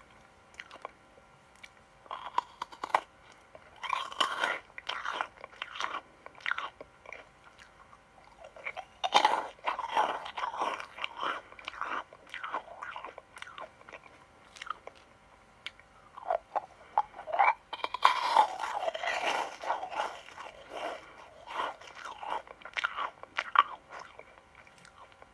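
Close-miked crunchy sweets being bitten and chewed, with sharp crackling crunches coming in several bursts separated by quieter pauses.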